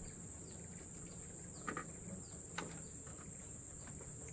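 Steady high-pitched insect drone, with two or three faint clicks partway through.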